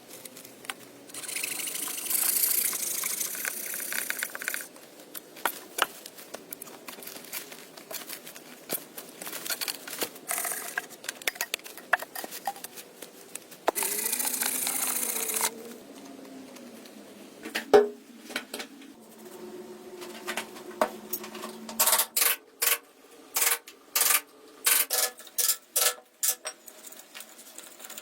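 Manual building work: two stretches of scraping hiss, then a quick run of sharp clinking taps, about two a second, near the end.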